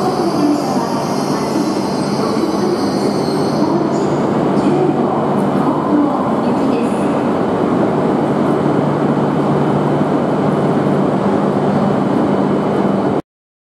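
E6 series shinkansen arriving slowly at the platform: steady rolling rumble and a low hum, with a high wheel squeal over the first few seconds. The sound cuts off abruptly just before the end.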